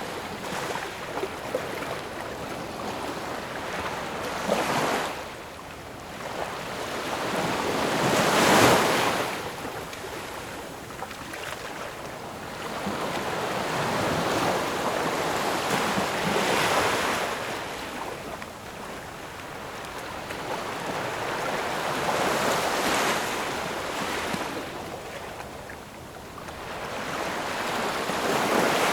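Ocean waves breaking and washing ashore, the surf swelling and falling every few seconds, with the loudest wave about a third of the way in.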